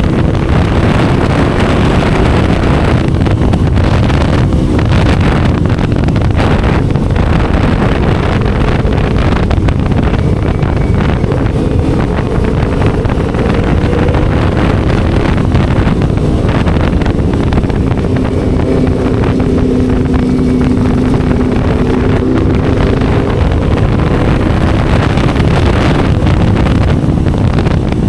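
Motorcycle engine and exhaust running steadily while riding, with wind buffeting the microphone. The engine's pitch holds fairly even, cruising rather than revving hard.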